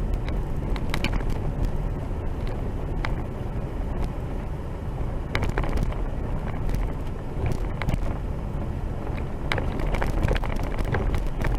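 A vehicle driving on a rough dirt road, heard from inside the cab: a steady low engine and tyre rumble with scattered clicks and knocks.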